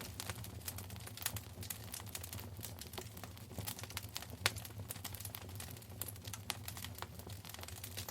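Wood fire crackling in a fireplace: dense, irregular pops and snaps, with a sharper single pop about four and a half seconds in, over a steady low rumble.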